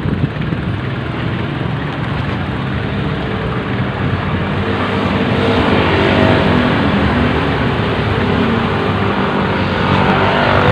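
Highway traffic: a steady rushing road noise, with a motor vehicle's engine passing close by and growing louder about halfway through.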